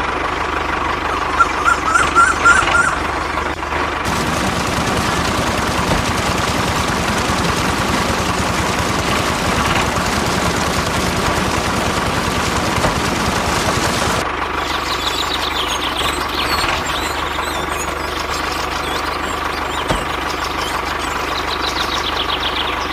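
DIY mini tractor with a rotavator, its small motor running with a steady high whine. From about four seconds in to about fourteen seconds in, a louder, rough, fast-rattling churn joins it.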